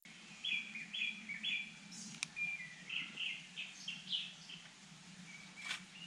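Birds chirping: a run of short, clear, repeated calls, several a second, over a low steady hum, with a single sharp click about two seconds in.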